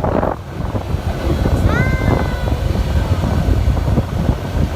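Steady low rumble of a yacht under way, its engine and the wind buffeting the microphone. About two seconds in, a short high tone rises and then holds briefly.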